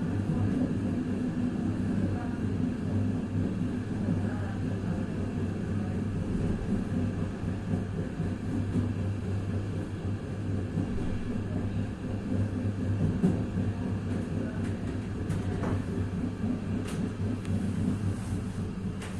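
Diesel railcar built by Vagónka Studénka running along the line, heard from on board: a steady engine drone over rumbling wheel and rail noise, with a few faint clicks toward the end.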